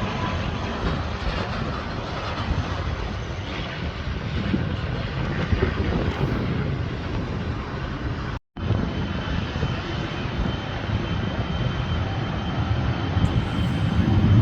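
Airplane engine noise, a steady rush with a deep rumble. It drops out for an instant just past halfway, and a faint steady high whine runs after the gap.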